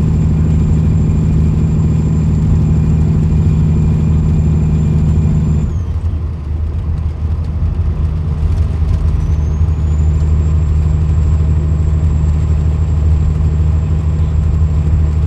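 Peterbilt 379's Cat C-15 diesel engine running steadily under a high thin whistle. About six seconds in, the engine note drops and the whistle falls away as the throttle comes off. A few seconds later the whistle rises back up and holds as power comes back on.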